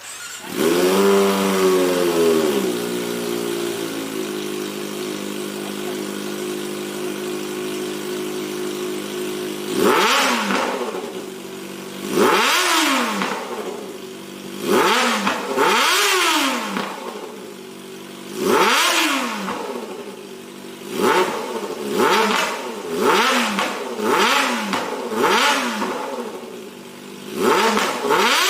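Kawasaki ZX-25RR 250 cc inline-four engine with a GP Tech aftermarket racing exhaust starting up. Its revs flare, then fall to a steady idle within a few seconds. From about ten seconds in it is blipped about eleven times, each a quick, super high-pitched rise and fall in revs, coming faster toward the end.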